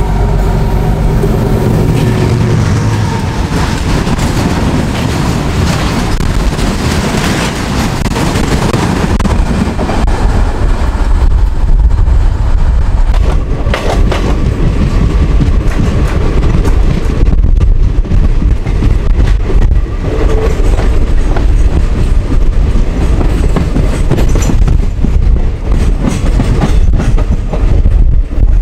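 Diesel-hauled passenger train running, its wheels clattering over the rail joints, heard loud from the open coach door. In the first few seconds a diesel locomotive's engine is heard on the adjacent track.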